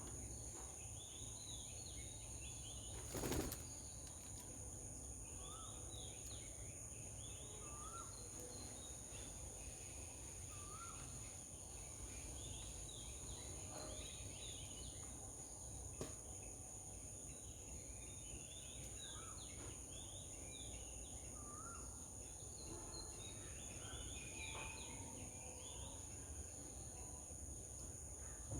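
Small birds chirping in quick clusters, with a short rising call repeated every few seconds, over a steady high-pitched whine. A brief louder rustle comes about three seconds in.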